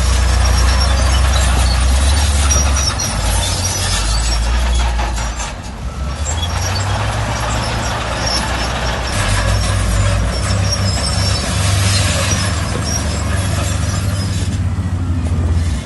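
Heavy diesel earthmoving machinery at work: a deep engine rumble that rises and falls, with a dense clatter and many short high metallic squeaks over it.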